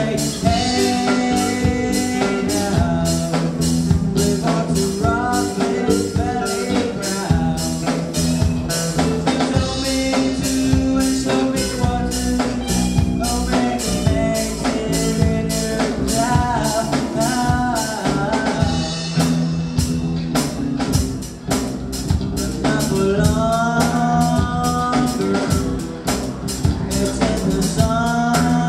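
Rock band playing live: a singer over a drum kit with a steady beat and a bass line.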